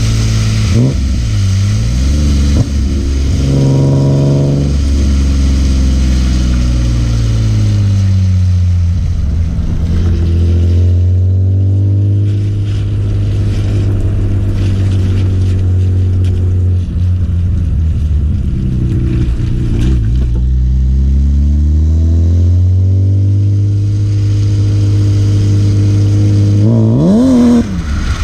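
BMW E36 M3's S50B30 straight-six engine pulling under throttle, its pitch climbing and falling several times as the revs go up and come back down. Near the end come quick, sharp revs up and down.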